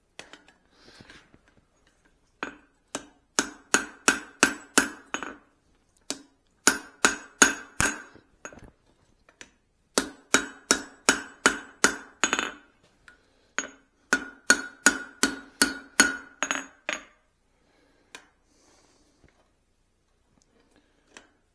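Hand hammer striking hot steel on an anvil, with each blow ringing. There are four quick runs of light blows, about three a second, then a pause of a few seconds before the next run. The blows are light cleanup strikes on a cross peen hammer head, not heavy forging.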